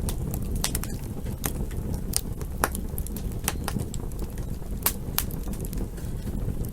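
Campfire burning: a steady low rush of flames with sharp wood crackles and pops at irregular intervals, several a second.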